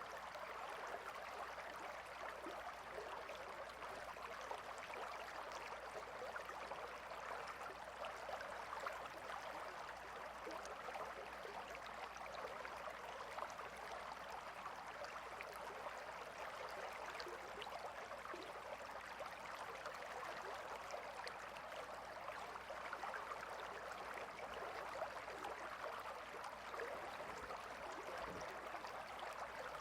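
Gentle river flowing: a steady, even rush of water with a fine babble.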